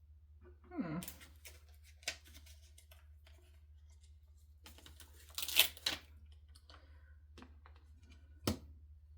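Small handling noises of craft supplies on a desk: a brief rustling scrape about a second in, a louder scraping rustle around the middle, and scattered clicks, with one sharp click near the end.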